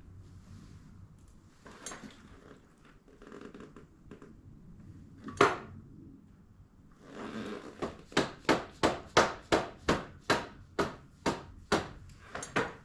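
Dirt-bike carburetor being tapped with a tool: scattered handling clatter, one sharp knock, then a steady run of about a dozen sharp taps, roughly two and a half a second. The tapping is meant to free a sticking float so the needle seats and fuel stops leaking out of the overflow.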